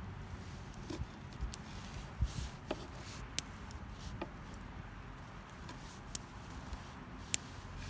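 Scattered sharp clicks and pops, about eight in all and irregularly spaced, the two loudest near the end, over a low steady background.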